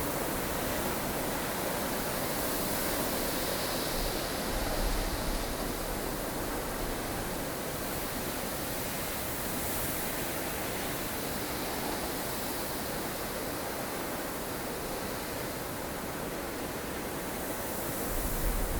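Blustery snowstorm wind blowing steadily as a dense rushing noise, swelling in gusts about four seconds in and again near the end, with a low rumble under the stronger gusts.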